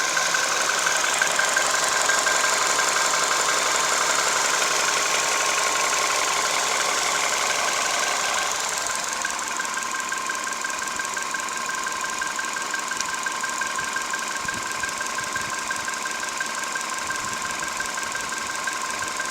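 Skoda Roomster's CFNA 1.6-litre four-cylinder petrol engine running at idle with a rapid metallic knock, the engine knock the owner says it has ("knocks well"). It gets a little quieter about eight seconds in.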